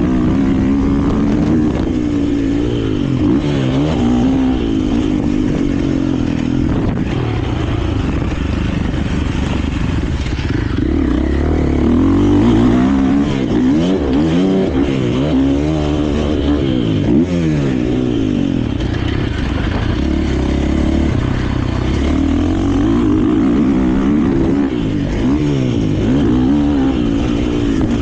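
KTM 450 four-stroke single-cylinder motocross bike engine running hard on track, its pitch rising and falling repeatedly as the throttle is opened and rolled off through the turns and jumps.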